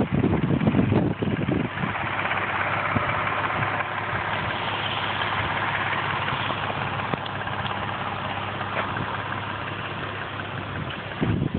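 Lexus IS350's 3.5-litre V6 running through an LMS aftermarket full exhaust, mostly at a steady idle, with a louder, deeper swell in the first second and a half and another briefly near the end.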